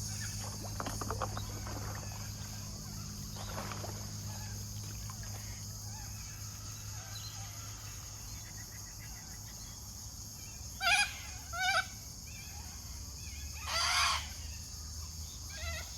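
Birds calling outdoors, two short calls about eleven seconds in and a louder one near the end, over a steady high-pitched drone of insects.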